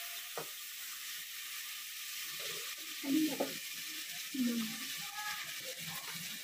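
Onion, tomato and chilli masala sizzling in hot oil in a steel pot after a splash of water, with a slotted spoon stirring it at the start. Two short, louder sounds come about three and four and a half seconds in.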